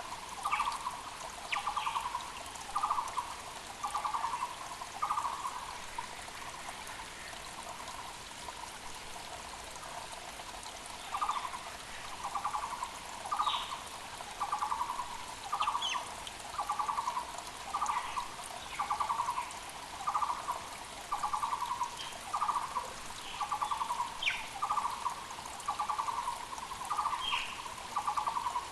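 Muller's barbet (Taiwan barbet) calling: a long run of evenly spaced, purring trilled notes, about one a second, that stops for several seconds and then starts again. Other birds give a few short, higher calls, over the steady rush of a mountain creek.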